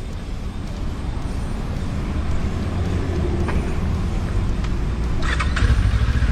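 Road vehicle on the move: a steady low engine and road rumble that grows gradually louder.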